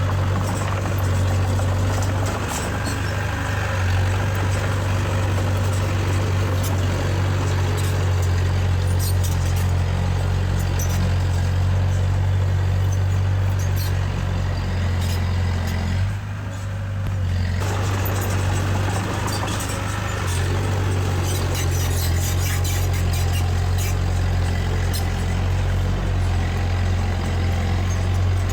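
Heavy diesel earthmoving machinery running steadily with a deep engine hum and scattered clanks and rattles. The higher clatter drops away briefly about sixteen seconds in.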